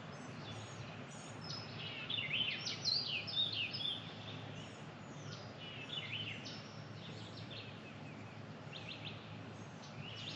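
Birds chirping and calling in short quick notes, busiest a couple of seconds in, over a faint steady background.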